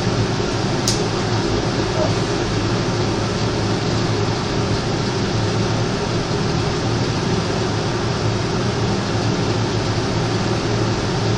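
A machine, most likely an engine, running steadily with an even low hum.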